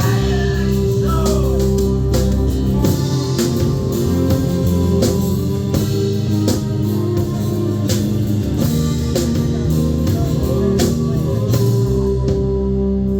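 Live rock band playing: electric guitar over bass and drum kit with a steady beat.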